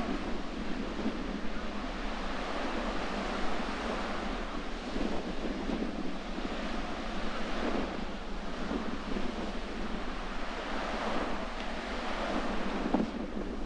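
Sea surf washing in continuously, a steady rushing noise that swells and eases, mixed with wind blowing on the microphone.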